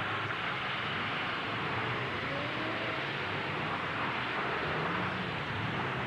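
Demolition derby truck engines running, with one revving up about two seconds in, over a steady wash of arena noise.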